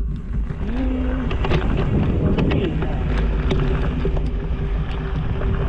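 Wind buffeting the microphone over a steady low rumble, with frequent sharp clicks and rattles throughout.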